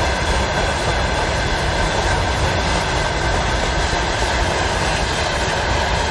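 Railway tank cars of a freight train rolling past: a steady, loud rumble of steel wheels on the rails, with a faint high ringing tone running through it.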